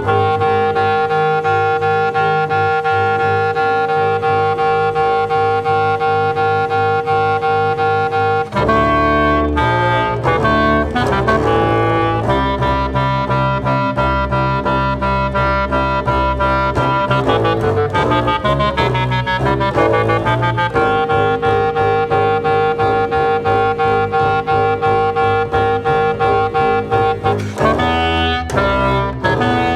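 Experimental music for clarinet and double bass. A clarinet holds a long steady note over low bass notes, then the pitches shift more busily, and a long held note returns about two-thirds of the way through.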